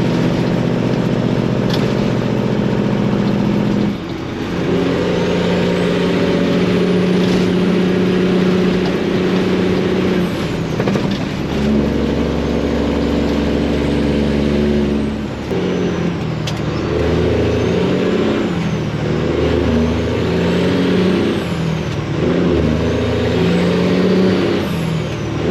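Detroit diesel engine of a Freightliner semi truck running under load. The engine note climbs and drops, with short breaks about 4, 11 and 15 seconds in. A faint high turbo whistle rises and falls above it.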